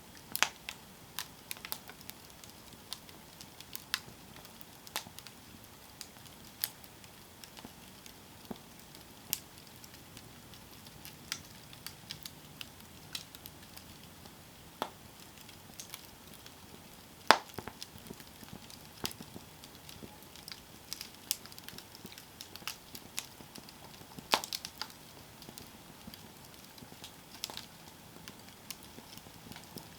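Wood fire crackling, with irregular sharp pops and snaps over a low steady hiss; the loudest pop comes a little past halfway.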